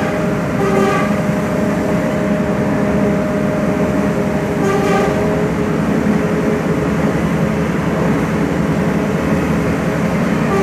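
Cut Meutia passenger train running steadily, its horn sounding two short blasts, about a second in and again around five seconds in.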